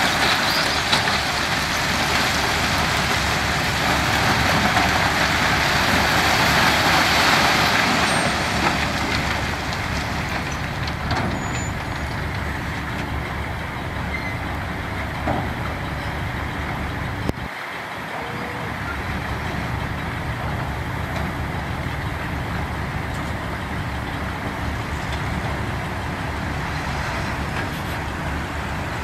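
Diesel heavy equipment running steadily on a construction site. A loud rushing hiss over the engine noise fades out over the first several seconds.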